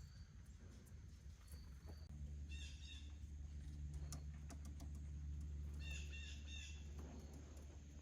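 Two short bursts of rapid bird call notes, about two and a half seconds in and again about six seconds in, over a low steady rumble that swells in the middle and fades near the end.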